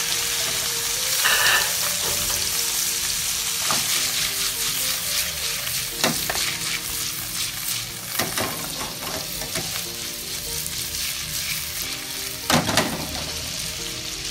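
Tuna chunks shallow-frying in hot butter and oil in a frying pan: a steady sizzle with crackling that eases slightly over time. A few knocks against the pan, the loudest near the end.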